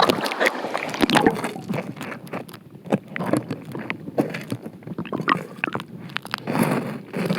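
Stream water sloshing and gurgling around a camera held in the water, with irregular splashes and knocks.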